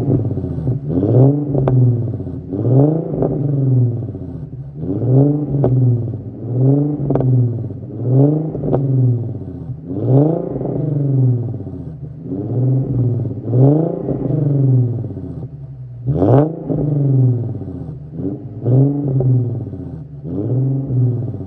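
Infiniti Q50's VQ37 V6 with its muffler deleted, blipped through about a dozen quick revs, each rising and falling back roughly every one and a half seconds.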